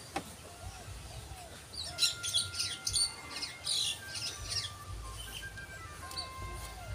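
Small birds chirping, a flurry of quick high calls loudest between about two and four seconds in, over faint background music with held notes.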